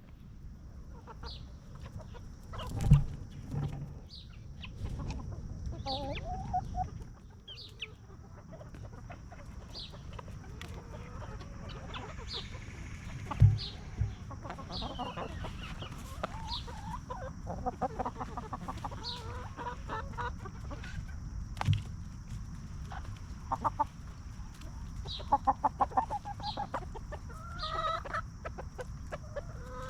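Free-range hens clucking while they forage, with scattered short calls and a few sharp knocks. A steady high-pitched tone sounds behind them.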